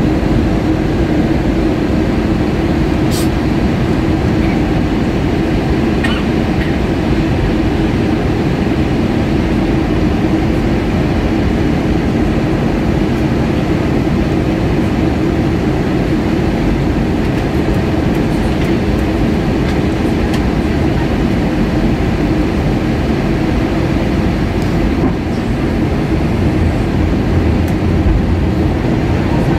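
Steady in-flight cabin noise of an Airbus A320-232 airliner during descent: the even drone of airflow and engines with a strong low hum. A faint click about three seconds in.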